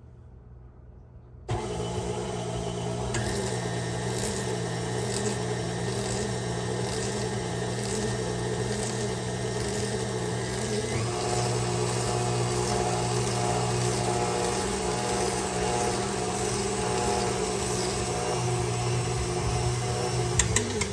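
KitchenAid stand mixer's motor switched on about a second and a half in, running steadily as it drives the Spiralizer Plus attachment through a daikon radish with the thin-slice blade and peeler. Its tone shifts about halfway through as the cut goes on.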